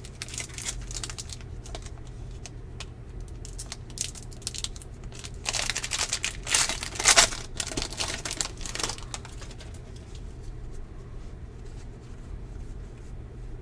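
Foil trading-card pack wrapper crinkling and tearing as a pack is opened by hand, in crackly bursts, loudest about seven seconds in. A steady low hum runs underneath.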